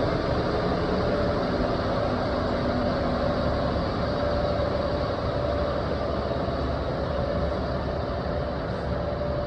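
Steady running noise of a vehicle being driven: engine and road noise with a faint steady hum, unchanging throughout.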